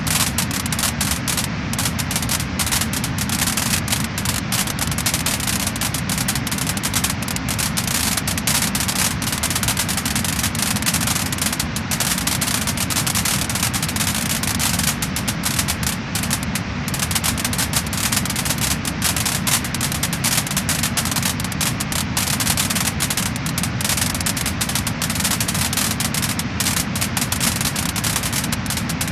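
Wood-burning fire crackling and popping: dense, rapid crackles over a steady low hiss and rumble of the flames.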